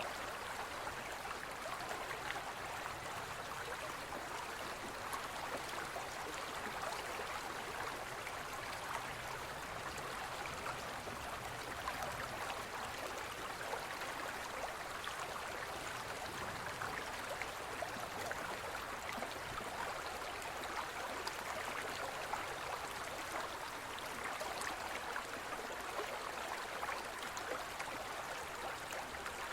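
Forest river flowing steadily over rocks, a continuous splashing rush of water.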